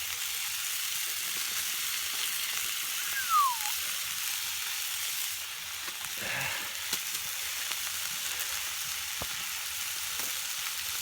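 Chicken fillets sizzling and frying in a wok over hot campfire ashes, a steady hiss. A short falling whistle sounds about a third of the way in.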